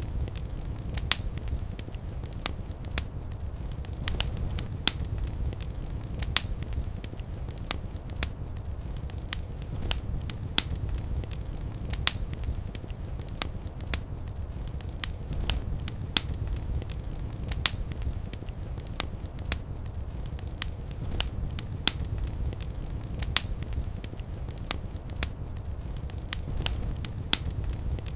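Fire burning in a fireplace, crackling with frequent irregular sharp pops and snaps over a steady low rumble of flame.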